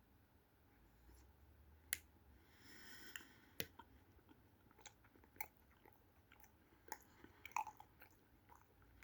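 Close-up mouth sounds of a person chewing a soft ice cream sandwich with a brown sugar cookie: faint wet smacks and clicks scattered irregularly through the chewing.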